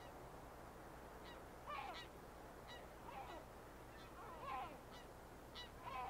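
Wild birds calling: four calls at intervals of about a second and a quarter, each led by a short higher note, over a faint steady background hiss.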